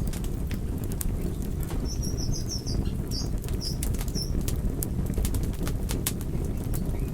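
Wood fire burning in a fireplace: a steady low rumble of flames with frequent sharp crackles and pops from the logs. About two seconds in, a short run of high chirps lasts a couple of seconds.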